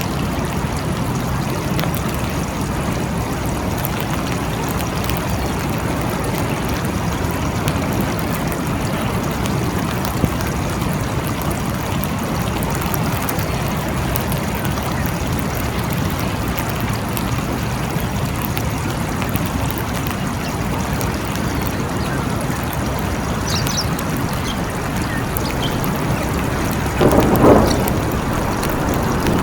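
Steady rain falling in a forest, a dense even hiss with scattered drop ticks. A brief louder sound breaks in near the end.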